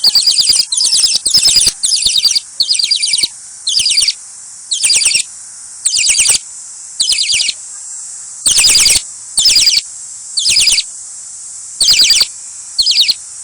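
Baby budgerigar (parakeet) chick begging while being hand-fed: a long series of loud, raspy high calls, about one a second, with faint clicks between them.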